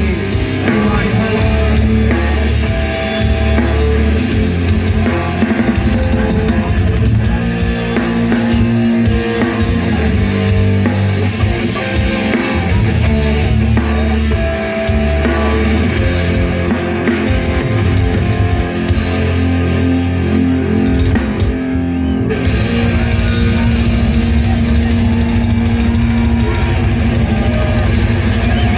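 Rock band playing live: an instrumental stretch of electric guitar and drum kit, with no singing.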